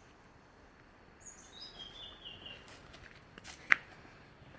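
A bird calling: a descending run of short, high notes over faint outdoor background sound. A single sharp click comes about three-quarters of the way through.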